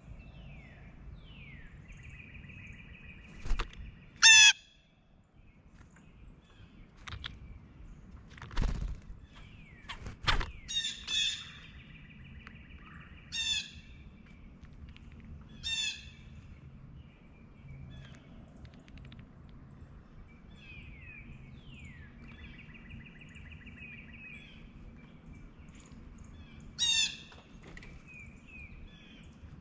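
Blue jays giving loud, harsh jay calls about five times, the loudest about four seconds in. Between them, softer trilled and down-slurred whistles come from smaller birds, and there are a few sharp knocks.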